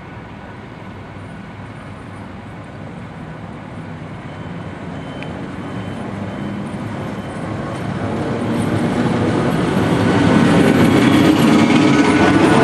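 MÁV V43 electric locomotive hauling passenger coaches, approaching and passing close by. Its wheels and running gear rumble louder and louder, reaching full loudness about ten seconds in.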